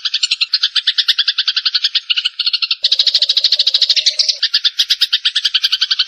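Lure recording of Eurasian tree sparrows (burung gereja) chattering, a fast, unbroken run of chirps at about a dozen a second. About three seconds in, a second, denser layer of chatter joins and the sound grows fuller.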